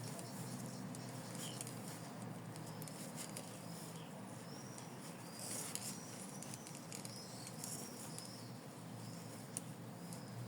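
Faint rustling and scratching of stuffing being pushed into a small felt toy with the tips of scissors, with scattered small clicks and a few short high squeaks.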